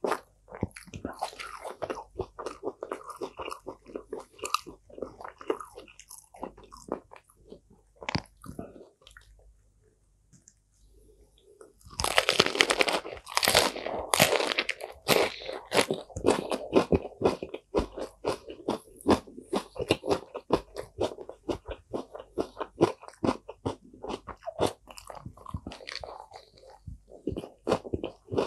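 Close-up mouth sounds of chewing food. After a short quiet pause about a third of the way in, loud, crisp crunching follows as a fresh lettuce leaf with cucumber is bitten and chewed.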